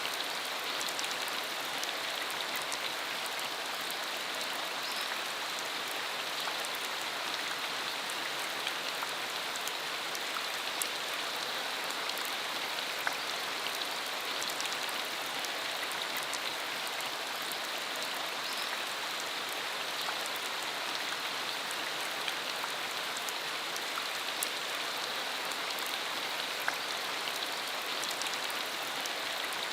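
Steady rain shower falling on a rural road, an even hiss of rain with scattered individual drop ticks.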